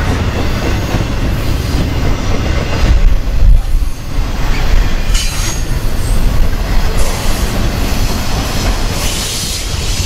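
Double-stack intermodal container well cars rolling past close by: steel wheels rumbling on the rail with a steady heavy roar, and some high-pitched wheel squeal. It swells a little louder about three seconds in.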